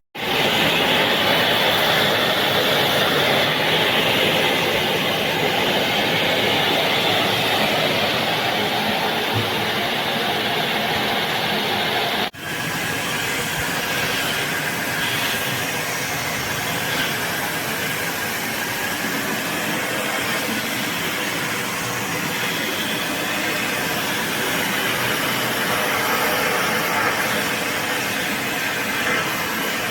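Philips Series 3000 Performer Compact 900 W bagged vacuum cleaner running steadily with a loud even whoosh. The sound breaks off for a moment about twelve seconds in and comes back a little quieter.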